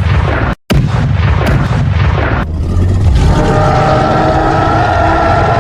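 Loud cartoon action sound effects: booming, rumbling crashes with sharp impacts, cut off abruptly for a moment about half a second in. From about three seconds in, steady held tones sound over continued rumbling.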